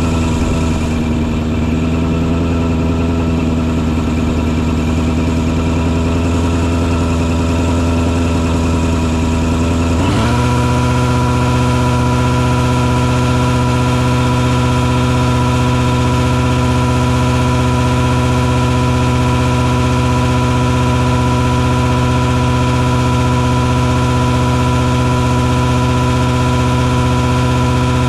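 Engine on a mosquito-fogging truck rig running steadily with a constant hum. About ten seconds in, its pitch shifts abruptly and it settles into a new steady note.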